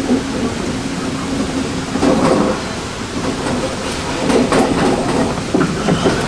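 Passenger train running, heard from inside the carriage: a steady low hum, with the wheels clacking over rail joints in quick pairs about two seconds in and twice more near the end.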